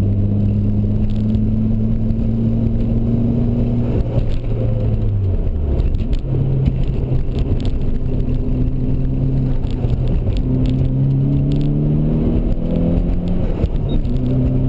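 Nissan 240SX engine heard from inside the cabin while driven hard on a race track. Its pitch climbs slowly, drops sharply about five seconds in, then climbs again with a few smaller dips, over a steady haze of road and wind noise.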